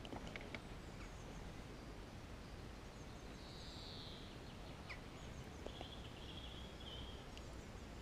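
Faint steady background noise with distant bird calls: one smooth call about three seconds in and a short warbling phrase around six to seven seconds in.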